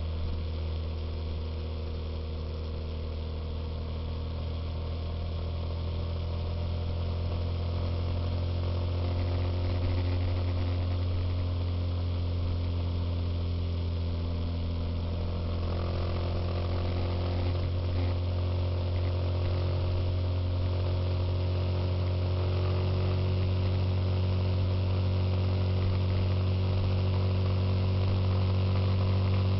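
Suzuki Intruder motorcycle engine running at a steady, unchanging pitch, its drone growing slowly louder.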